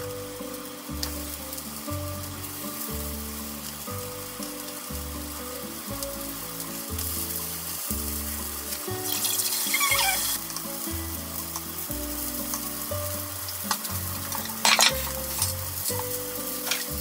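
Meat-stuffed green peppers frying in oil in a frying pan, sizzling as more are laid in. The sizzle grows louder about halfway through as the pan fills.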